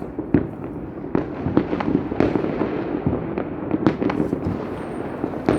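Fireworks going off all around, irregular sharp bangs of different loudness over a continuous background crackle of many more distant shots.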